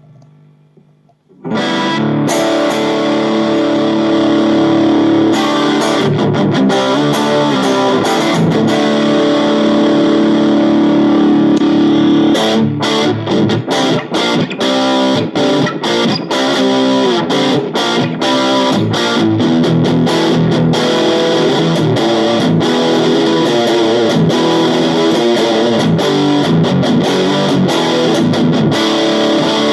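AIERSI ST11 HSS electric guitar played with distortion. A faint held note gives way to loud sustained chords about a second and a half in, and about halfway through the playing turns choppy, with short stops between strokes.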